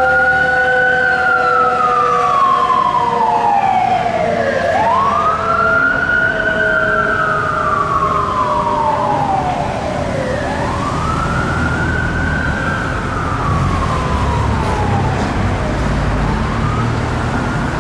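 Emergency vehicle siren on a slow wail: each cycle rises quickly and then falls slowly, repeating about every five and a half seconds, with a second, steadier siren tone underneath in the first few seconds. The siren fades near the end as a heavy engine rumble grows.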